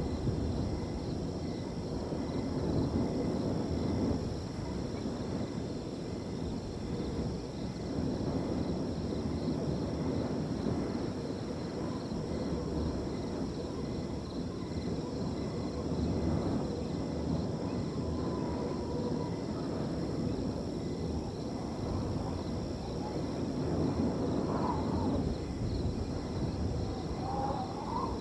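Wind blowing through a field in gusts that rise and fall, with crickets trilling in a steady, even pulse behind it. A faint whistled call sounds briefly a few times in the second half.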